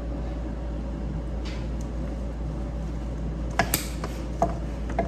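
Sharp clicks and snaps from a hand tool working electrical wire, four quick ones about three and a half to five seconds in, likely strippers taking insulation off the wire, over a steady low hum.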